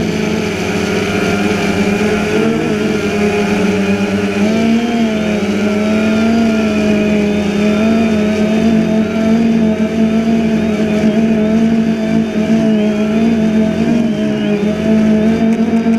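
DJI Phantom 2 quadcopter's motors and propellers humming steadily in flight, the pitch wavering slightly up and down.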